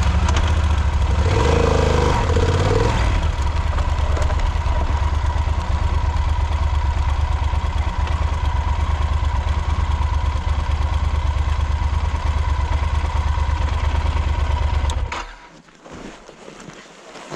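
Motorcycle engine running steadily just after starting, with a brief rise in revs about a second in as the bike is moved. It is switched off suddenly near the end.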